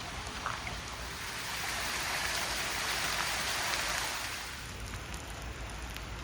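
Steady summer rain falling: an even hiss that swells a little in the middle.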